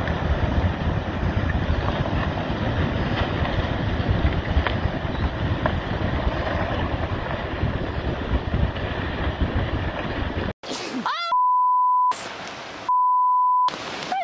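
Loud, steady rushing of wind and waves for about ten seconds. It cuts off suddenly, and then come two long, steady, high beeps about a second and a half apart.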